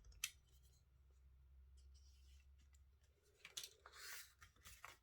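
Faint clicks and scratchy rasps of card being pierced with a hand awl: one sharp click about a quarter second in, then a cluster of short scrapes near the end.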